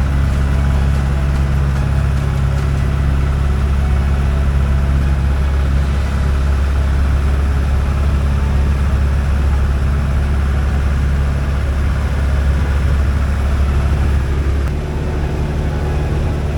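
Piper J3 Cub's Continental A65 four-cylinder air-cooled engine running steadily with a deep, even drone. Near the end the note drops and gets slightly quieter, as if power is pulled back.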